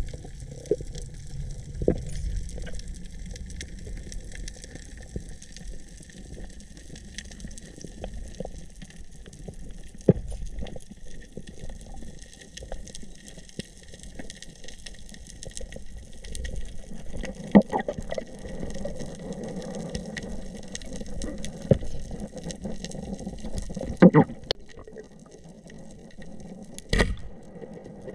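Water sounds with many faint scattered clicks, and three louder sharp knocks in the second half.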